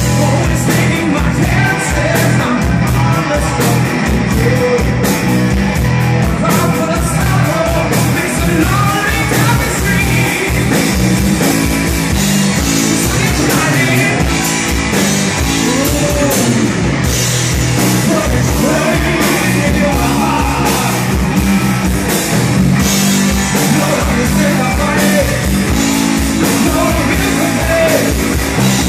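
Rock band playing a hard rock song, with a sung lead vocal over a steady drum beat.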